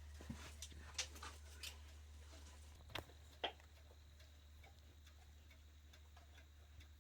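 Quiet room with a low steady hum and a few faint scattered clicks and taps, the sharpest about three seconds in and another just after.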